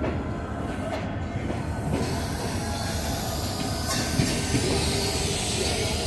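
Passenger train coaches rolling along the station track: continuous wheel-on-rail rumble with a few sharp clicks and some wheel squeal.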